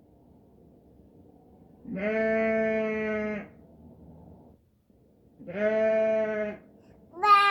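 Recorded sheep bleating, played from an Alexa smart speaker: two long, steady bleats, then a third, higher one starting right at the end.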